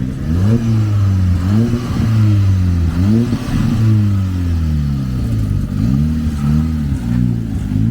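A car engine revving hard: its pitch climbs and falls three times in quick succession, sinks slowly, then gives a string of short, quick blips near the end.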